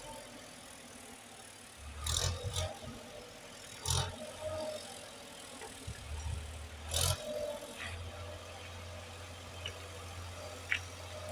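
Tractor engine running at low revs with a steady low hum, broken by three loud sharp knocks about two, four and seven seconds in.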